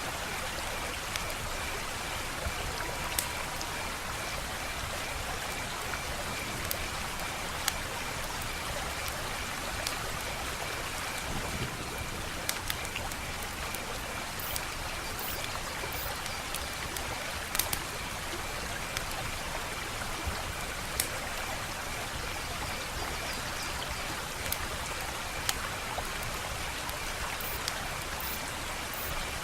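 Wood fire crackling: a steady hiss of burning with irregular sharp pops and snaps, and a steady high trill underneath.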